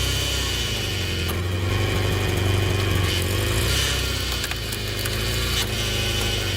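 Homemade hydraulic wood splitter running, its power unit and pump humming steadily, with a few sharp cracks of wood as a log is split.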